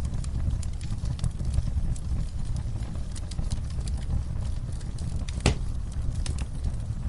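Wood fire crackling in a fireplace: a steady low rumble of the flames with scattered sharp pops, and one louder pop about five and a half seconds in.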